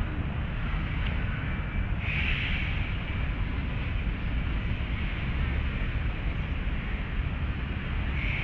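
Steady low outdoor rumble, like wind on the microphone and a city's distant traffic, with a brief higher-pitched sound about two seconds in.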